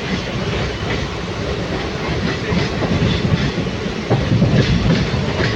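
Passenger train running, heard from on board: a steady rumble of wheels on the track with a few faint clicks over rail joints.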